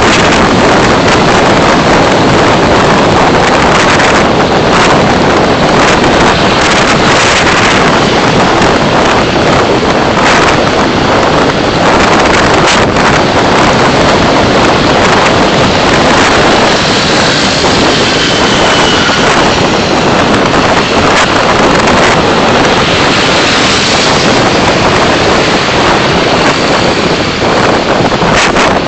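Loud, steady rush of wind and road noise from a car driving, as picked up by a dashcam microphone, with a few faint knocks from bumps along the way.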